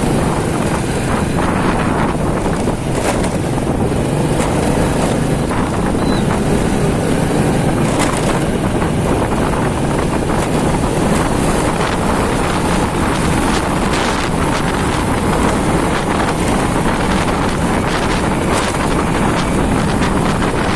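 Loud, steady wind rushing over the microphone of a moving motorcycle, with the motorcycle's engine running underneath and a few brief sharp sounds from the traffic.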